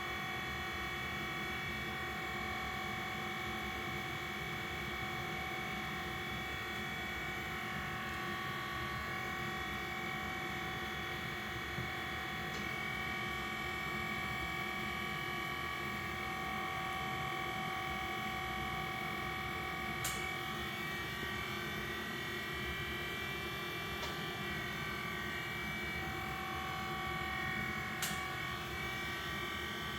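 Citronix CI1000 continuous inkjet printer running, a steady whine from a small motor with a low hum beneath. A few short clicks come through, the last near the end.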